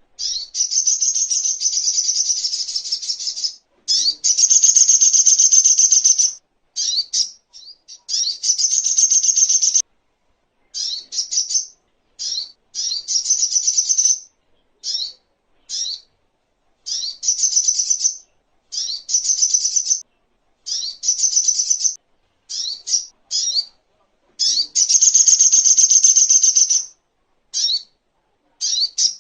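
Little spiderhunter (songon) singing: rapid, high, trilled chattering phrases, some under half a second and some running two to three seconds, broken by short pauses.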